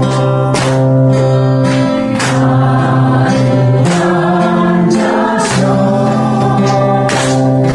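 A group of voices singing a worship song together to strummed acoustic guitar.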